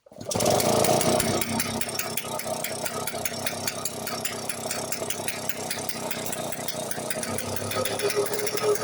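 98cc Atco Midget two-stroke engine running on its first start, with a rapid rattly firing beat; it is loudest for the first second or so, then settles to a steady run.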